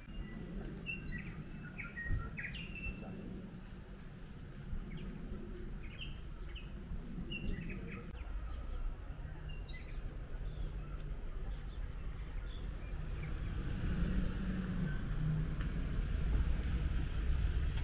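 Small birds chirping in short, repeated calls, busiest in the first half. Under them a low rumble grows louder toward the end.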